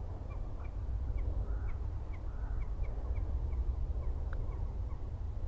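A small bird calling in short, high chirps, roughly two a second, over a steady low rumble.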